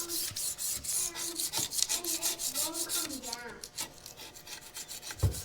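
Rapid back-and-forth scraping on metal, cleaning old paper gasket off the tractor PTO housing's mating surface. It stops about three and a half seconds in, and a soft thump follows near the end.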